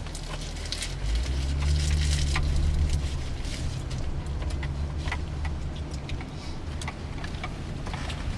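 Car engine running with road noise; the engine hum grows louder about a second in as the car pulls away, then settles. Scattered light clicks and rattles run over it.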